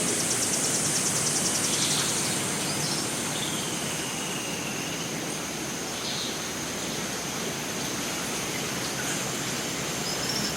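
Rainforest ambience: a steady hiss of water with a high, constant insect drone. A rapid insect pulse runs through the first two seconds, and a few faint bird calls come through, one a drawn-out dipping whistle about four seconds in.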